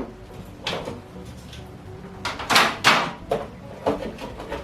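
Kitchen handling noise: a series of short knocks and scrapes, about seven in all, the loudest two coming about two and a half to three seconds in.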